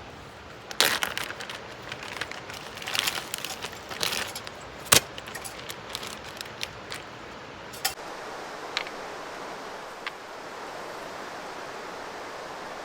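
Irregular clattering and knocking of hard objects being handled, with one sharp knock about five seconds in. After about eight seconds only a steady rush of running water remains.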